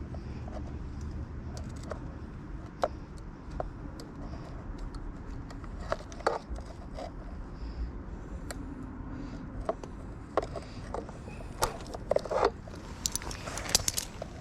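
Light metallic clicks and clinks of hand tools and wire being handled, scattered at first and coming thick and fast near the end, over a steady low rumble.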